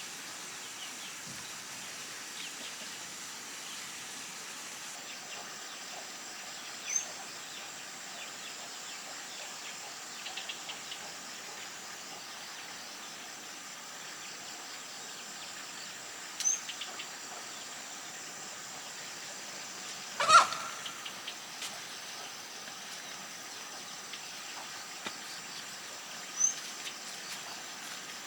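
Rural outdoor ambience with a steady high drone. A short rising bird chirp comes three times, about ten seconds apart. One sharp knock, with a brief ring, sounds about two-thirds of the way through and is the loudest sound.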